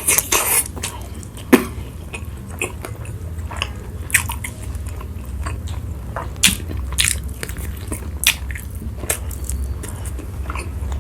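Close-miked eating sounds: a person chewing and biting into food, with irregular wet clicks and crunches, a few louder ones about a second and a half in, over a low steady hum.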